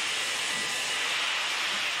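Steam locomotive with a steady, unbroken hiss of escaping steam.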